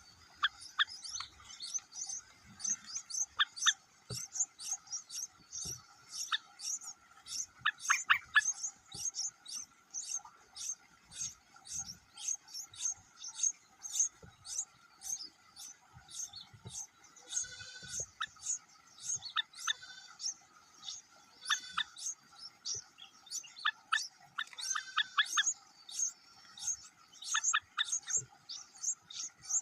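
Small birds chirping: a quick, steady run of short high chirps, with a louder cluster about eight seconds in.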